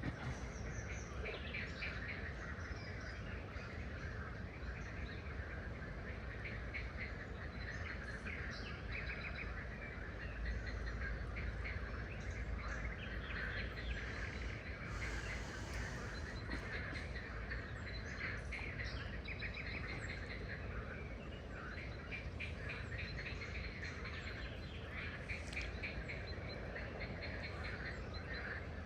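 A chorus of songbirds chirping and calling, many short quick notes overlapping throughout, over a steady low rumble.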